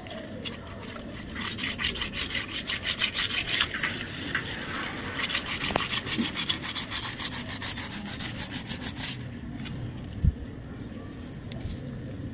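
Quick, rhythmic scrubbing strokes on a wheel bearing's worn rollers as they are cleaned, for several seconds before stopping; one dull thump follows near the end.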